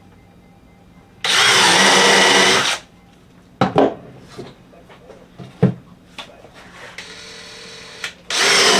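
Power drill driving screws into 2x4 lumber: two bursts of a second and a half or more each, about a second in and near the end, with a few knocks and clicks between them as the screws and boards are handled.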